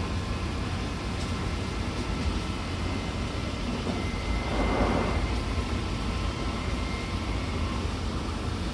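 Odakyu 70000-series GSE electric train running at speed: a steady rumble of wheels on rail with faint steady whines from its full-SiC VVVF inverter and traction motors. A brief rushing swell comes about halfway through.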